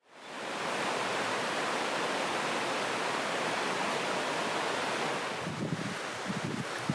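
Steady rushing of flowing river water, fading in at the start. A few soft, irregular low knocks come in over it near the end.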